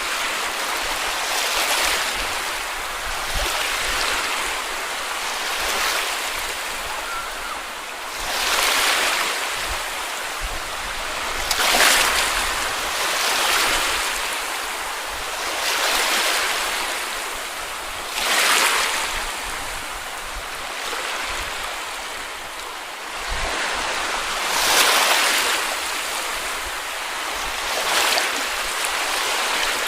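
Small sea waves breaking and washing up the beach, a fresh wash every two to three seconds over a steady hiss of surf, a few coming in louder than the rest.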